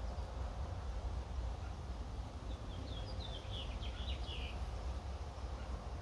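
A bird calling a quick run of about eight short high chirps in the middle, over a steady low rumble.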